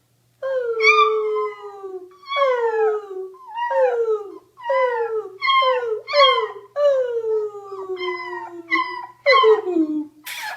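A beagle howling in a string of about nine calls, each sliding down in pitch. A short sharp click comes near the end.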